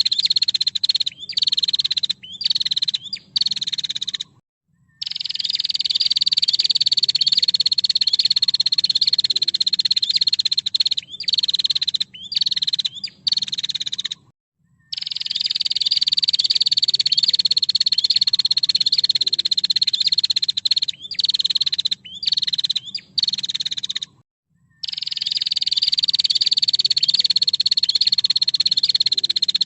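Female prenjak (prinia) giving its rapid rattling trill call, high-pitched and dense, in long runs of about six seconds, each broken off into a few short bursts and a brief pause, the pattern repeating about every ten seconds.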